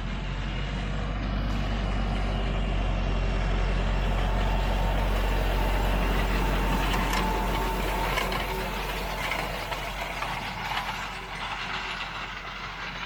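Fendt 514 tractor running as it pulls a Pöttinger hay rake past, growing louder over the first few seconds and fading toward the end, with light clattering from the rake in the second half.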